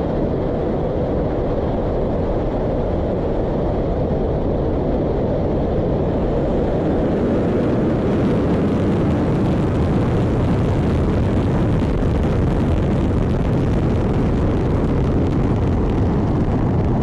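Soyuz-2.1v rocket's engines roaring steadily in flight after launch, a deep rumble that grows a little brighter about six seconds in.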